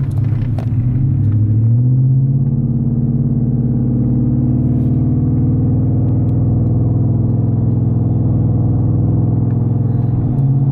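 Ford 5.0 V8 in a 2016 F-150 accelerating away from a stop through a 4-inch MBRP cat-back exhaust, heard from inside the cab. The exhaust note climbs in pitch over the first two seconds, then holds a steady low drone that dips in pitch briefly near the end.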